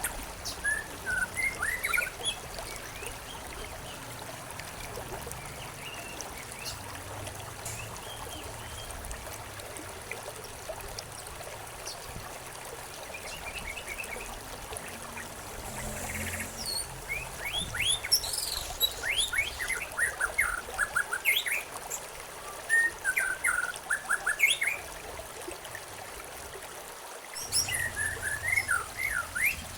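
Several small songbirds chirping and calling in bursts of quick, downward-sweeping notes, over a steady trickle of running water from a stream.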